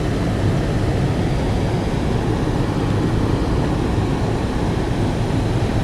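Car creeping slowly through floodwater, a steady low rumble of engine and tyres heard from inside the cabin.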